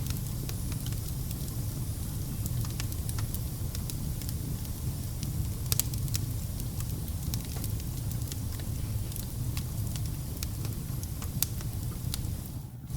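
Wood fire burning in a fireplace: a steady low rumble with scattered sharp crackles and a few louder pops.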